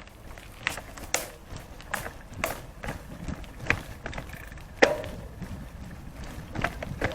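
Irregular sharp knocks and clicks over a low rumble, from moving along a forest dirt path.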